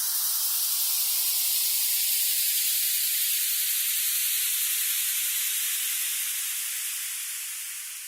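Steady rushing hiss with slow falling sweeps running through it, fading out over the last couple of seconds.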